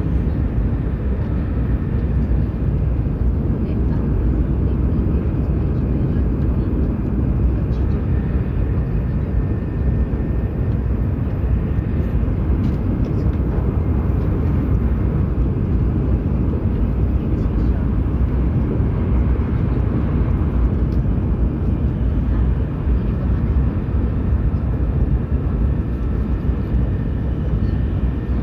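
Steady low rumble of a Hokuriku Shinkansen train running at speed, heard inside the passenger car.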